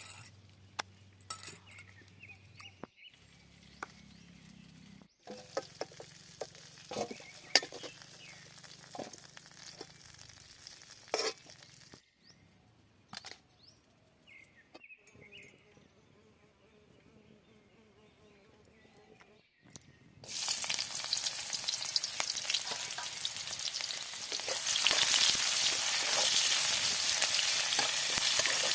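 Scattered light knocks and clicks, then about two-thirds of the way in a loud, steady sizzling of food frying in hot oil in a pan, which grows louder near the end.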